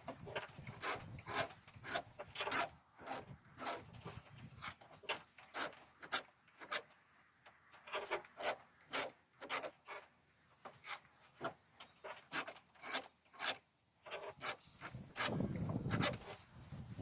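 Hand file rasping across the depth gauges (rakers) of a chainsaw chain in short, quick strokes, about two a second, with brief pauses between teeth.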